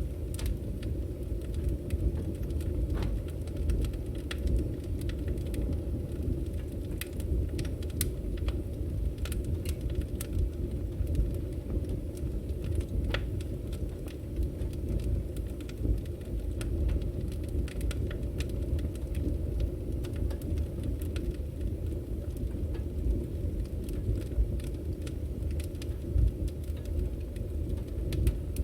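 Burning firewood: a steady low rumble from the fire with many scattered sharp crackles and pops.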